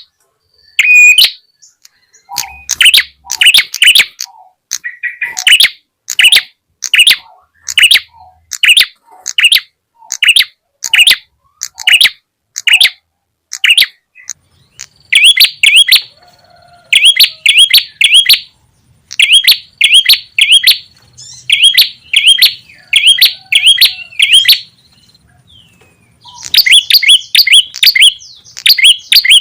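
Recorded lure call of a prenjak (prinia): loud, sharp chirps repeated about twice a second. About halfway through they turn into quick runs of three or four notes, and after a short pause near the end they give way to dense, rapid chipping.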